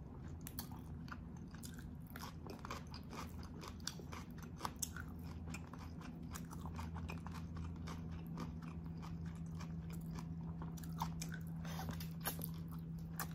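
Close-up mouth sounds of a person eating oxtail adobo and rice by hand: wet chewing, lip smacks and many short clicks, over a low steady hum.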